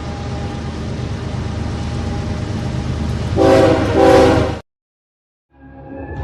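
A train running with a steady low rumble, then two short blasts of its horn about three and a half seconds in. The sound cuts off abruptly, and after a second of silence another sound fades in near the end.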